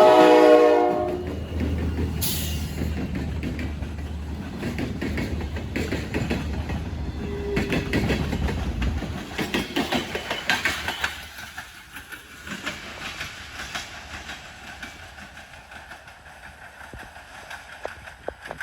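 Freight train passing: the locomotive's air horn cuts off about a second in, the diesel engine rumbles past, then the wheels click over the rail joints and the sound fades away.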